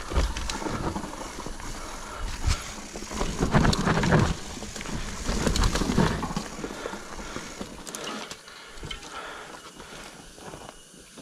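Mountain bike ridden over a rough dirt trail: tyre and frame noise with scattered clicks and rattles. The low rumble swells twice, about three and a half seconds in and again near six seconds.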